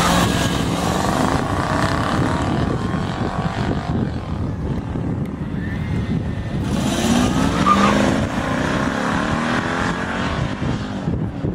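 Drag-racing cars accelerating hard, their engines revving high as they run past. One car goes by at the start and another about seven seconds in.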